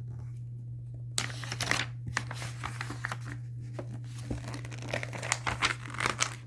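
Paper rustling and crinkling as book pages are handled and turned: many quick rustles and clicks starting about a second in.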